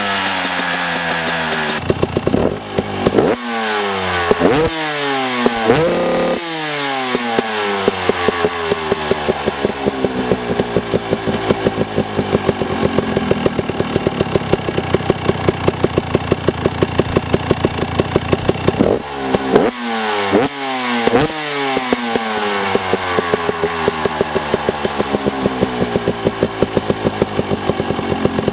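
Stock-exhaust Husqvarna enduro dirt bike engine revved in four quick throttle blips, each falling back in pitch, then held running for about twelve seconds, then blipped a few more times before settling.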